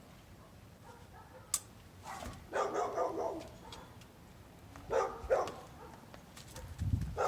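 A dog barking in three short bouts, with a single sharp click about a second and a half in.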